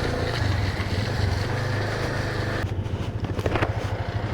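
Motorcycle engine running steadily while riding a rough off-road track, with a few knocks and rattles about three seconds in.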